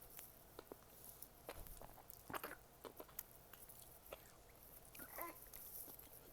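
Faint close-up chewing and wet mouth clicks from someone working at a tough, thick mouthful of food that she cannot chew through. A brief high squeak comes about five seconds in.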